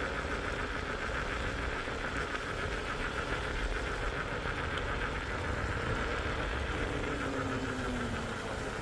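Small 125 cc four-stroke motorcycle engine running steadily under way, with rushing wind and road noise.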